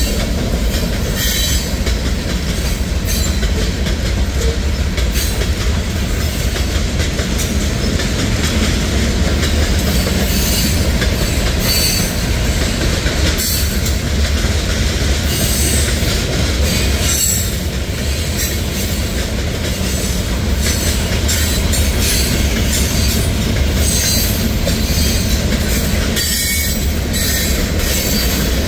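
Freight cars of a mixed manifest train rolling past: a steady, loud rumble of steel wheels on rail with irregular clacking from the wheels and car couplings.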